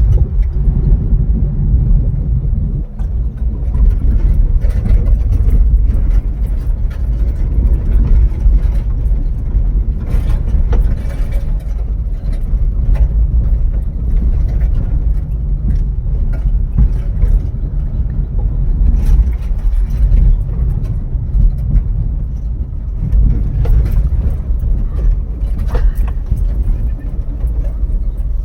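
A car on the move: a steady low rumble with scattered short knocks and rattles.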